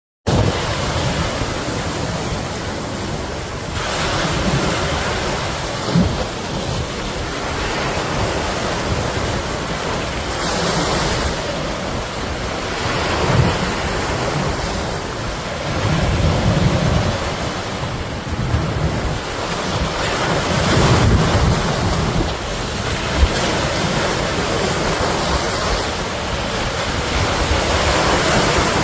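Steady rushing noise of wind, with gusts buffeting the microphone.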